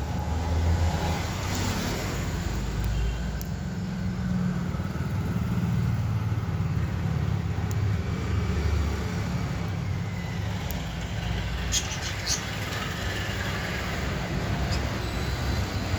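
A steady low rumble of background noise, with a few short sharp sounds about twelve seconds in.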